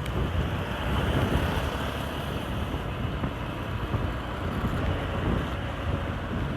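Steady wind rush on the microphone and road noise from a moving motorcycle in heavy traffic, with other vehicles running around it.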